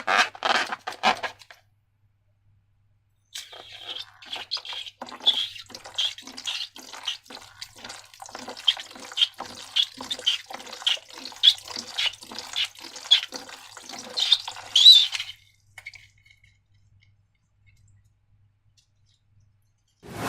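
Sticky slime squelching as it is worked by hand: a quick run of short, wet clicks and squishes, about three a second, that starts after a short pause and stops about fifteen seconds in.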